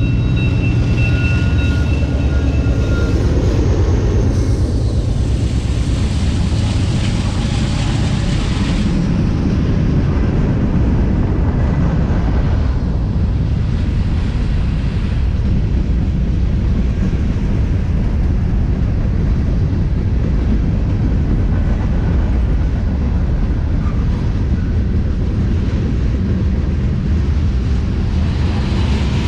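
Train passing close by: the end of its horn fades out in the first few seconds, then a steady, heavy rumble of the train rolling past continues.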